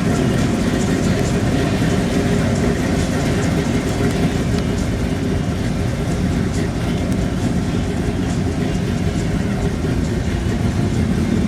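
Car engine idling, a steady low rumble that holds even throughout.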